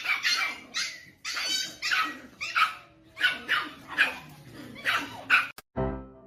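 A dog barking repeatedly in short barks, about two a second, stopping abruptly near the end.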